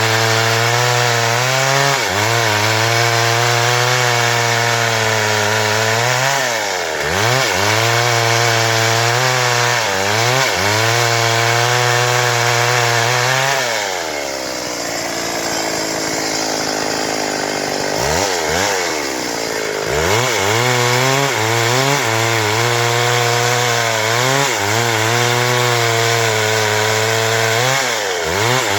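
Stihl MS 382 two-stroke chainsaw running at full throttle while cutting through wood, its pitch dipping briefly every few seconds as the throttle eases between passes. About halfway through, the engine drops back toward idle for a few seconds, then is revved up again and goes on cutting.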